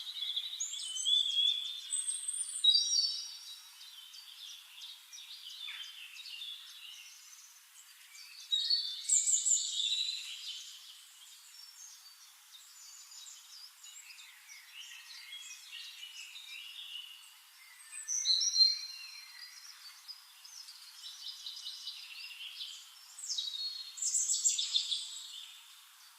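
Several songbirds singing and chirping in short, high trills and whistles, with louder bursts of song about two seconds in, around nine seconds, around eighteen seconds and near the end.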